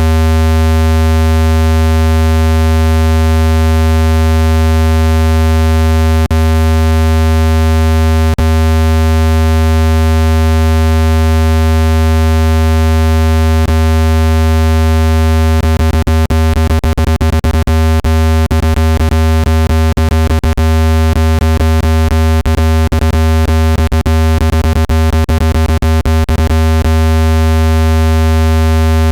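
Loud, steady, low-pitched electronic buzzing tone with many overtones: a speaker-cleaning tone meant to vibrate dust out of a phone speaker. About halfway through, a run of sharp irregular clicks breaks over it for several seconds.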